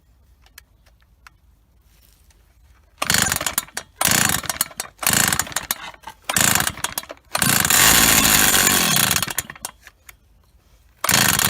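Old Stihl 08S two-stroke chainsaw being pull-started. After a few faint clicks come several short, loud pulls on the recoil starter about a second apart. The engine then catches for about two seconds and slows as it dies, and another pull comes near the end.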